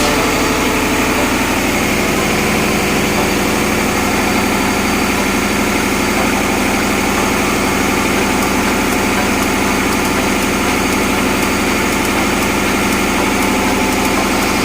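Steady, unbroken drone of tugboat engine-room machinery running.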